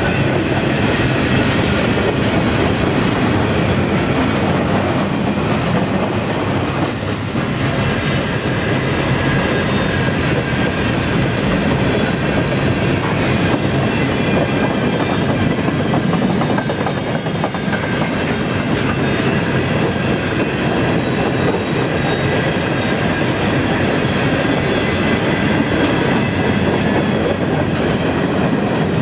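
Freight cars of a long CN freight train, boxcars and then centerbeam flatcars, rolling past at about 20 mph: steady, loud wheel-on-rail rumble and clatter.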